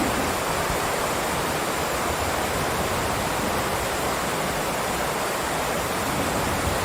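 Heavy rain downpour, a steady even hiss.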